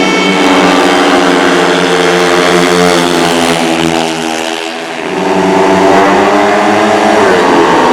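Several speedway motorcycles racing with their single-cylinder engines at high revs. The sound dips briefly about halfway through, then swells again as bikes come past, with a rising pitch near the end.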